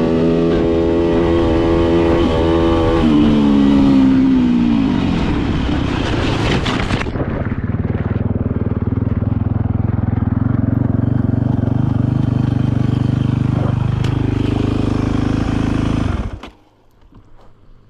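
Yamaha dirt bike engine running hard, its pitch falling about three seconds in as the bike slows. It then runs lower and steadier, and cuts off suddenly near the end.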